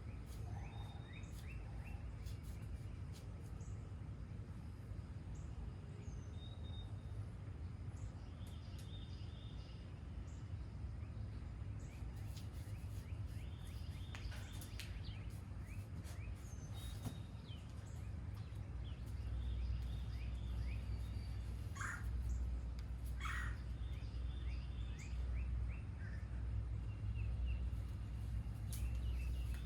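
Several wild birds chirping and singing in short repeated notes and trills, over a steady low rumble that grows louder about two-thirds of the way through.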